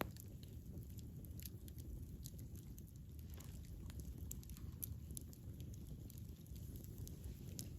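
Campfire burning, a low steady rumble of flames with irregular sharp crackles and pops from the burning wood.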